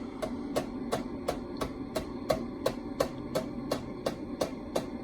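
Hampton Bay Landmark ceiling fan running on high and wobbling, with a steady motor hum and a regular click about three times a second.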